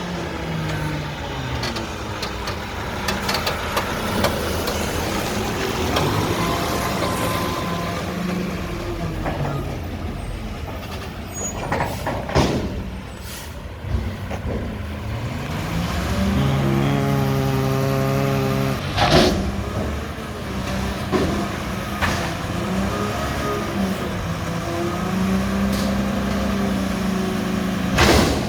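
Mack garbage truck with a McNeilus front-loader body at work: its diesel engine revs up and holds high, then drops back, as the truck runs its hydraulics, with air brake hisses and several sharp metal bangs along the way.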